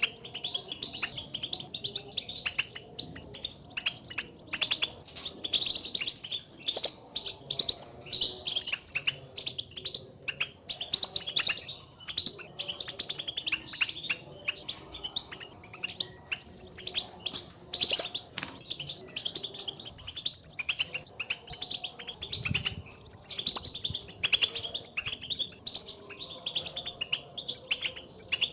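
European goldfinches giving a steady stream of rapid, twittering call notes, the contact calls goldfinches use to call to one another.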